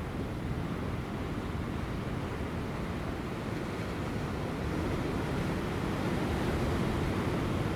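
Ocean surf breaking on rocks offshore: a steady, low rushing wash of waves that swells a little about five seconds in, with light wind.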